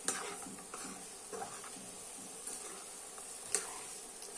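Mutton chukka being stirred in a kadai: a spoon scraping and clicking against the pan through the dry-roasted meat over a faint sizzle, the sharpest click about three and a half seconds in.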